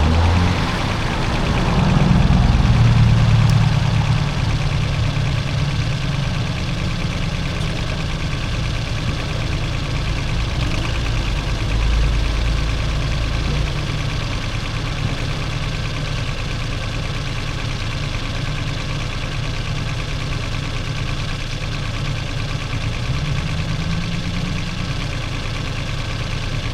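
Diesel engine of a compact construction machine running steadily. About two seconds in it works harder and louder for a couple of seconds, then settles back.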